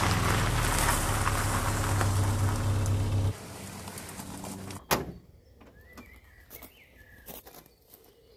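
Peugeot 304 Coupe S engine running as the car rolls over gravel, cut off abruptly about three seconds in. A sharp click follows about five seconds in as the bonnet release lever is pulled, then faint small clicks and brief bird chirps.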